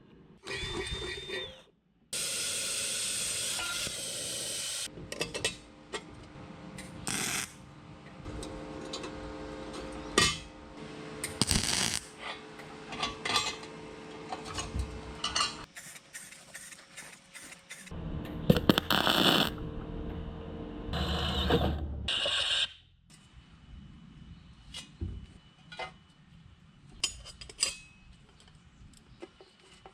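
Crafting and tool noises in quick succession, broken up by edits: clicks, knocks and rattling mechanical sounds, with louder stretches of scraping or cutting noise.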